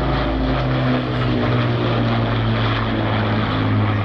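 Propeller-driven piston engines of a Second World War Battle of Britain Memorial Flight aircraft flying past, giving a loud, steady drone.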